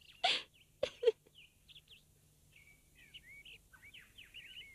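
Small birds chirping in short, quick bursts. A few sharp clicks and a brief breathy sound come in the first second.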